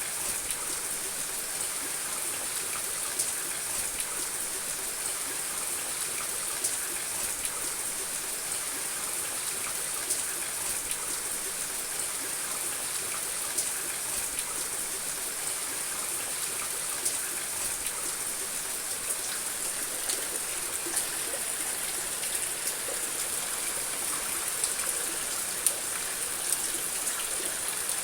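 Steady rain falling on a house roof: a continuous hiss with many small scattered drop ticks.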